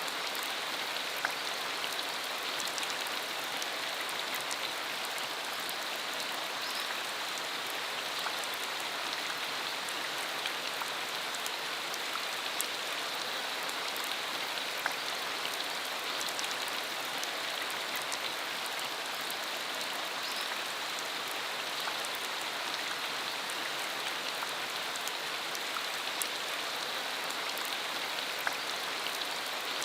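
Steady rain shower falling, a dense even hiss with many separate drops ticking on the surface.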